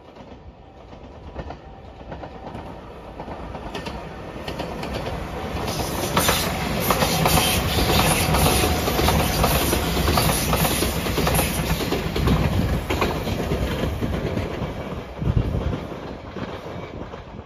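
JR Shikoku 8000 series electric limited express in Anpanman livery passing close by. The rumble and wheel clatter over rail joints build up, stay loud through the middle of the pass, then fade. There is a brief thump near the end.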